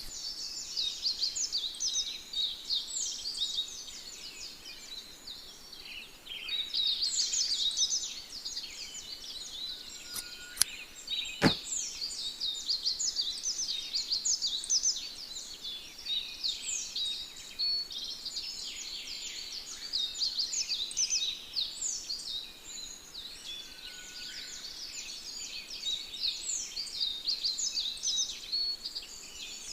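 Many small birds chirping in a dense, continuous chorus of quick, high chirps. A single sharp click is heard about eleven seconds in.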